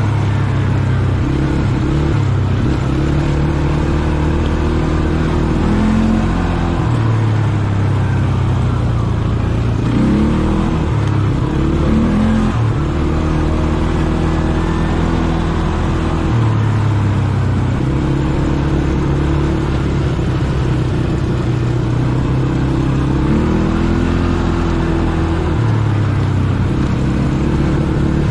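ATV engine running under way, its pitch holding steady for stretches and then rising and falling as the throttle is opened and eased off several times.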